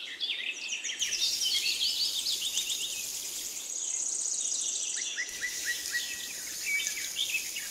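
Small birds chirping, many quick high chirps and short falling notes overlapping throughout.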